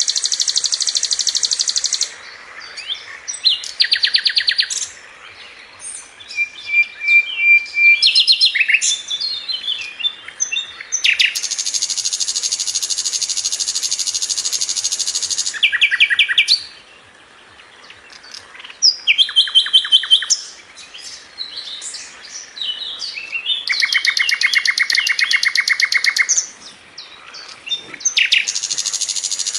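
Brown-chested jungle flycatcher (sikatan londo) singing: fast, tightly packed high trills, some held for two to four seconds, alternating with short chirps and brief pauses.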